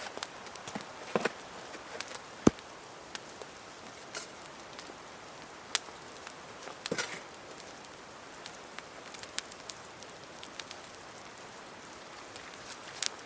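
Wood campfire crackling: a steady hiss with scattered sharp pops, the loudest about two and a half seconds in.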